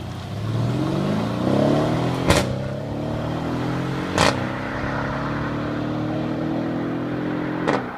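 Lamborghini Aventador SV Roadster's V12 accelerating hard: the engine note climbs, broken by a sharp crack at each upshift, about two seconds in, again about four seconds in, and once more near the end.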